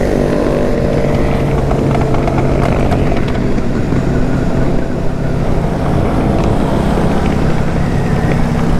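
Motorcycle engines running at a fairly steady pitch while riding, a continuous loud drone with road and air noise over it.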